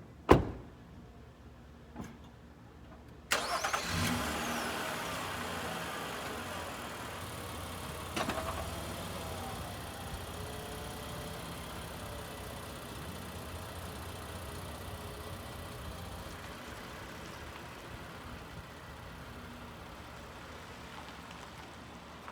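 A sharp click, then water spraying from a garden hose onto a car. The spray comes on suddenly a few seconds in, surges again briefly, and runs on steadily while slowly growing softer.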